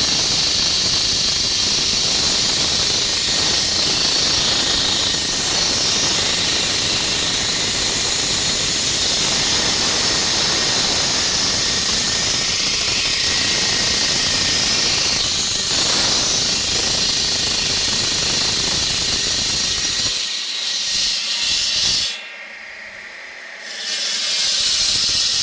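Concrete cutting saw grinding through concrete: a loud, steady, high hissing grind. It drops away briefly about 22 seconds in, then comes back at full level.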